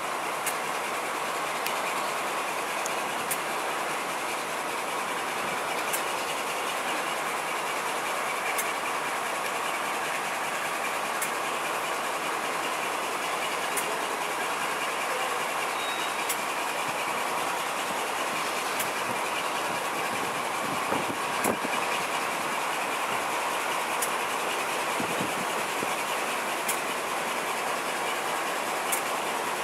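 Passenger coach running along jointed track, heard from an open window: a steady rumble of wheels and air, with a wheel click over a rail joint about every two and a half seconds. The train is hauled by a Class 52 diesel-hydraulic locomotive.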